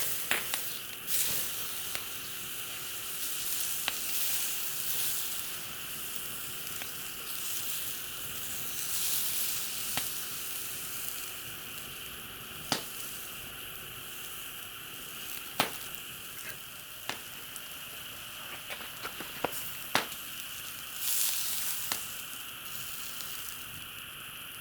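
Food sizzling in a pan over a campfire: a steady frying hiss with scattered sharp crackles and pops.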